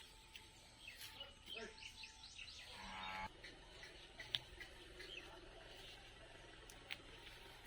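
Faint outdoor ambience with birds calling: a run of quick falling chirps a second or two in, then a short buzzy call around three seconds. A few small clicks are scattered through it.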